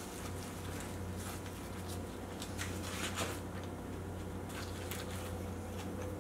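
Close-miked chewing of a mouthful of wrap, with soft wet mouth sounds. Aluminium foil crinkles in short bursts as the foil-wrapped wrap is handled and set down, over a low steady hum.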